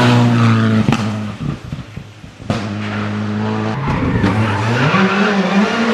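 Skoda Fabia R5 rally car's turbocharged four-cylinder engine at high revs, falling in pitch as it comes off the throttle, with a sharp crack about a second in. After a short lull it comes back loud and steady, cracks a few more times, then rises in pitch again as it accelerates.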